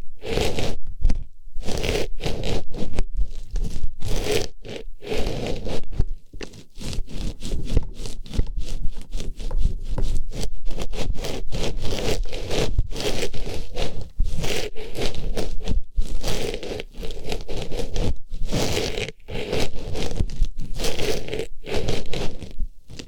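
Artificial flower pushed into and rubbed around an ear microphone for ASMR ear cleaning: a close, loud, scratchy rustling in quick strokes with brief gaps between them.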